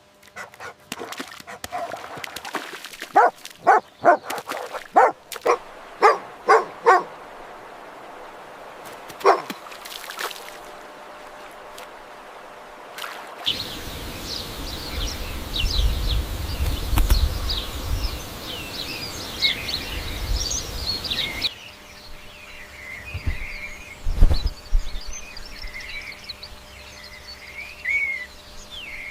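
A run of short, sharp, yelping animal calls in quick succession, then bird chirps over wind rumble.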